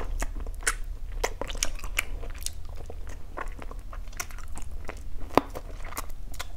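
A person chewing and biting pieces of lemongrass-chili stir-fried chicken close to the microphone: many irregular short mouth clicks and crunches, over a steady low hum.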